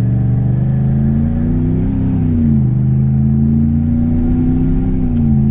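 2016 Ram 1500's 5.7-litre Hemi V8 accelerating at part throttle, the engine note climbing and then dropping sharply at two upshifts, about two and a half seconds in and again near the end. The shifts are firm, the sign of the new transmission tune.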